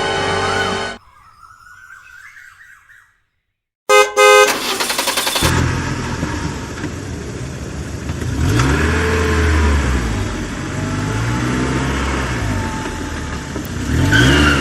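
Background music stops about a second in. About four seconds in a vehicle horn sounds loudly and briefly, then a motor vehicle engine runs with rising and falling revs for the rest.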